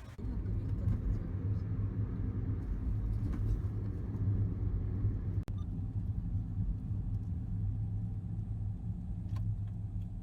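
Car driving, a steady low rumble of engine and road noise, with a brief dropout about halfway through.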